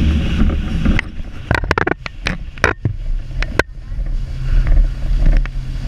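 Steady low drone of a boat's engine. A quick run of sharp knocks comes between about one and a half and three and a half seconds in.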